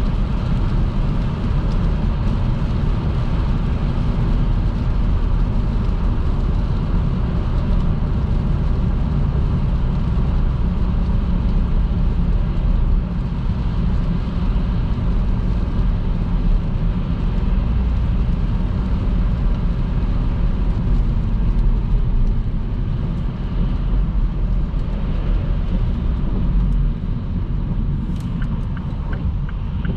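Steady road noise of a car driving on a motorway in heavy rain: a low rumble with an even hiss above it.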